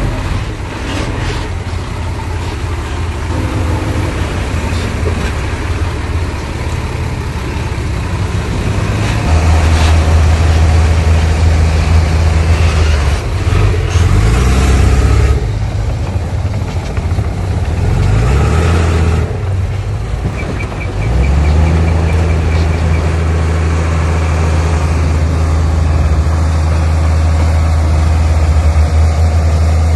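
Heavy diesel engine of earthmoving machinery running. Its pitch drops and rises a few times in the middle, with bursts of rattling noise, then it settles into a steady drone for the last third.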